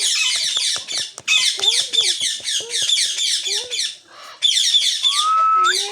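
Green pet parrot chattering in rapid, high-pitched calls, in bursts with brief breaks about one second and four seconds in, and a short rising whistle near the end.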